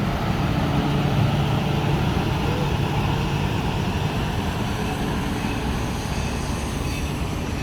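Passenger train rolling past in a steady rumble with a low drone underneath, slightly louder about a second in.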